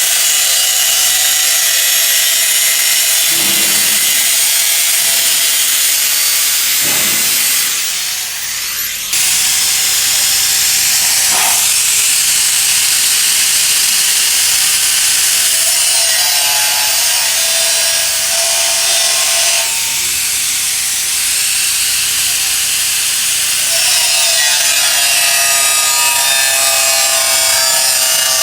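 Power saw cutting through a 100 x 50 x 2 mm stainless steel rectangular tube: a loud continuous cutting noise with steady ringing tones from the metal, easing briefly about eight seconds in.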